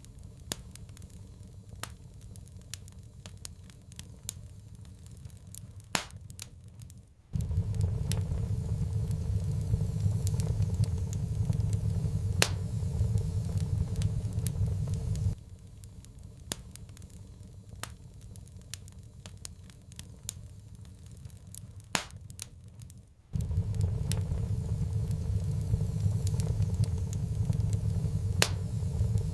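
Wood fire crackling in a fireplace, with irregular sharp pops and snaps. A low rumble switches on and off abruptly in stretches of about eight seconds, dropping out twice.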